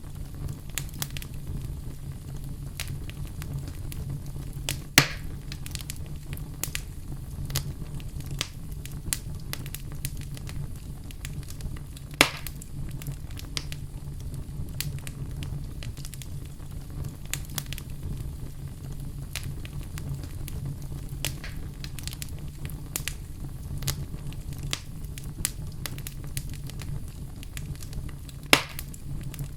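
Wood fire in a fireplace, burning with a steady low rumble and constant small crackles. Three sharp, louder pops stand out: about five seconds in, about twelve seconds in, and near the end.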